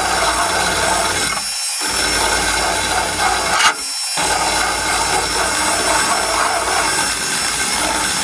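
Electric drill running a paint-stripping (burnishing) wheel against steel truck body panel, grinding off paint and surface rust. The motor whine and abrasive grinding are steady, easing briefly twice.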